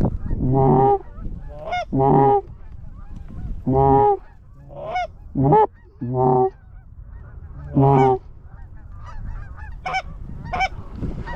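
Geese honking, about ten separate honks spaced a second or so apart, turning into quicker, higher, clipped clucks near the end.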